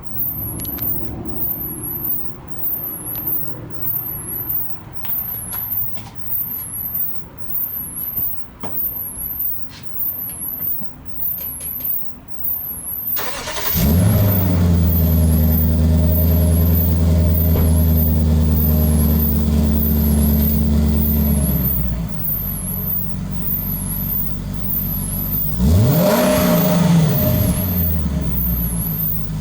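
Exhaust of a 2007 Lexus LS460 L's V8 with stock exhaust and exhaust-tip vents: after uneven rumbling and clicks, the engine starts about halfway through and runs at a steady fast idle. It settles to a lower idle, then is revved once and drops back, with another rev beginning at the very end. A faint repeating high squeak from the camera runs throughout.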